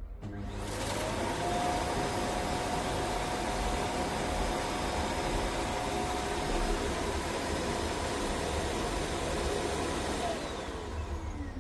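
Dreame D20 Pro Plus self-emptying dock's suction motor running to empty the robot's dustbin. It spins up just after the start into a loud, steady whine and spins down with a falling pitch about ten seconds in.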